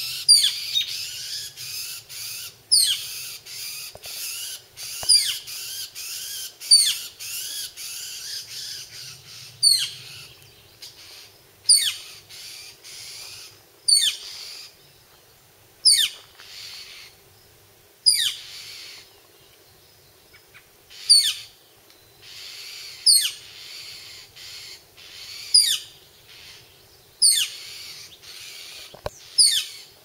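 Birds calling at a tree nest hole: a sharp, high, falling call repeats about every two seconds, over a dense chattering of calls that fills the first ten seconds or so and then thins out. The uploader hears the hole's resident as an angry bird, disturbed by curious young woodpeckers.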